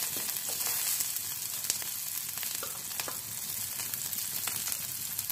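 Cumin, coriander, green chillies and ginger-garlic paste sizzling steadily in hot oil in a metal wok, with a wooden spoon clicking and scraping against the pan a few times as the spices are stirred.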